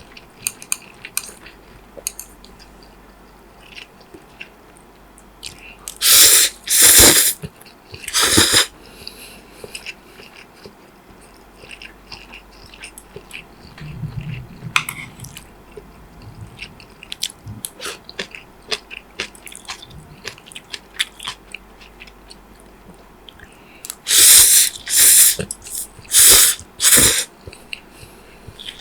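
Close-miked eating of fried noodles and roasted chicken: soft chewing and wet mouth clicks throughout, broken by loud short bites or mouthfuls, three around six to eight seconds in and four more in quick succession near the end.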